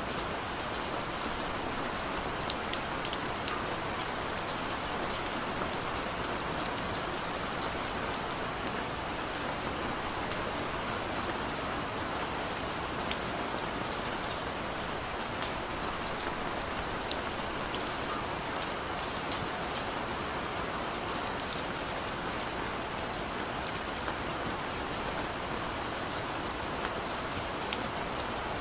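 Steady rain falling on a surface, a dense even hiss with scattered sharp drop ticks.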